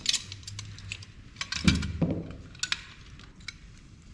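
Small metal and plastic printer parts clicking and clinking as they are handled and pulled apart by hand, with scattered light ticks and a couple of duller knocks about halfway through.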